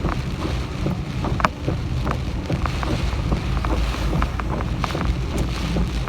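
Typhoon wind buffeting the microphone in a heavy low rumble, with scattered sharp taps, likely from rain, throughout.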